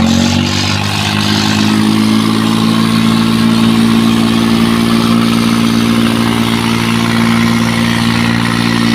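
Tractor diesel engines running hard at high revs, pulling against each other in a tractor tug-of-war. The revs climb in the first second, then hold steady under the load.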